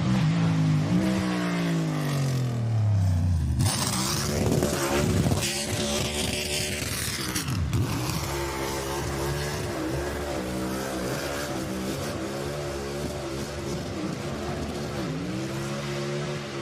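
Racing car engines. For the first three seconds one engine note falls steadily in pitch. It then changes abruptly to a noisier passage, and after that engines run with a note that wavers up and down.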